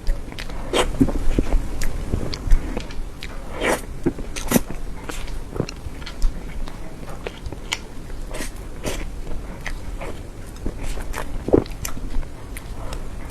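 A person biting and chewing soft cream cake close to the microphone, with irregular mouth clicks and smacks.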